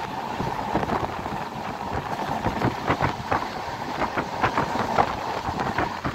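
A moving express passenger train heard from on board: a steady rumble and rush of wind, with a quick, irregular run of rattles and clanks from the wheels and coaches that grows busier from about two seconds in.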